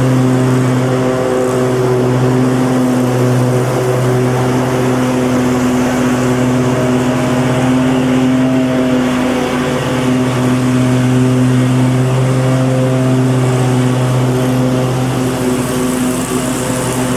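Lawnmower engine running steadily at a constant speed, a loud even drone.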